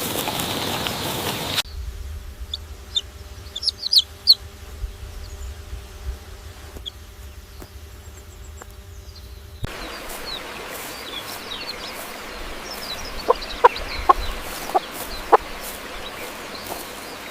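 Poultry calling: short high peeps and clucks, with the background changing abruptly twice where clips are spliced together.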